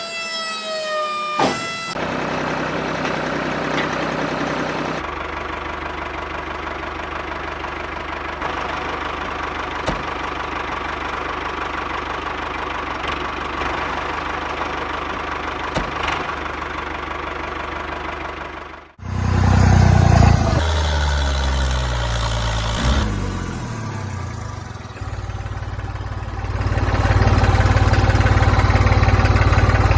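Vehicle engine sound running and idling steadily, changing abruptly several times as one clip gives way to another, with a deeper, louder engine rumble in the last few seconds. A short pitched horn-like tone sounds at the very start.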